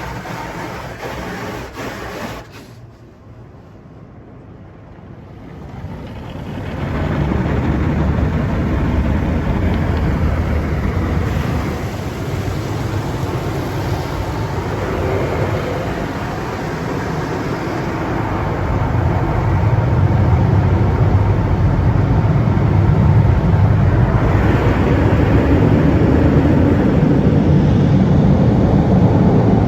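Car wash tunnel equipment running around a car: a steady rush of noise with a heavy low rumble. It drops away briefly a few seconds in, then builds up again and grows a little louder near the end.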